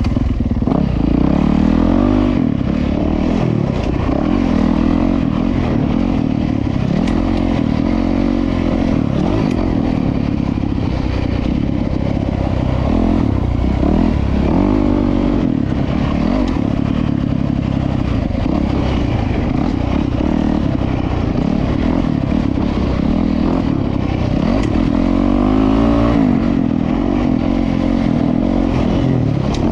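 Dirt bike's single-cylinder four-stroke engine, a 2025 Honda CRF450RWE, being ridden on a motocross track, its revs rising and falling again and again under the throttle.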